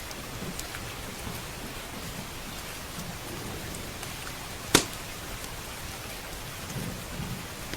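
Steady heavy rain with a single sharp pop from a wood fire in the fireplace about two-thirds of the way through.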